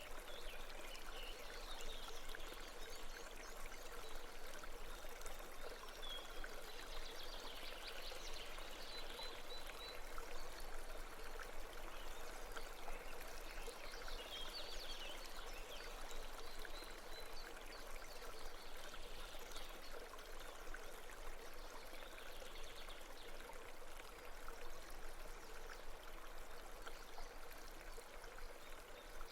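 A babbling brook running steadily, with a few brief, higher-pitched flurries of water sound now and then.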